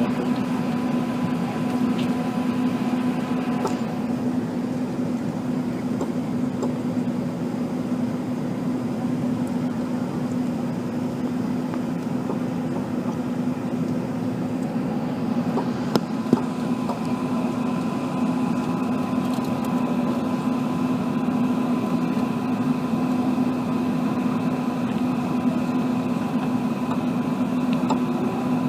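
Steady cabin noise inside an Airbus A380: engine and airflow noise with a constant low hum. There is one short click about sixteen seconds in.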